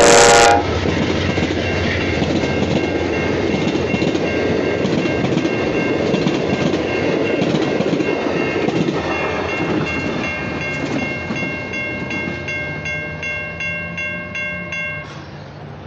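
Amtrak passenger train passing over a grade crossing: the locomotive's horn cuts off about half a second in, then the rumble and wheel noise of the passing cars, fading over the last few seconds as the train clears. Crossing bells ring throughout, heard plainly once the train noise drops, and stop about 15 seconds in.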